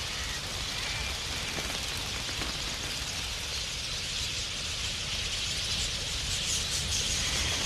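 A huge flock of wild budgerigars chattering all at once: a dense, steady wash of high chirping that grows a little louder near the end.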